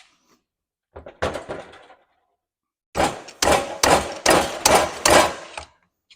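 Metal clanking of a Hafco guillotine/press brake being worked on a short strip of panel steel: a couple of knocks about a second in, then a quick run of about eight loud clanks. The strip is too shallow for the guillotine to cut.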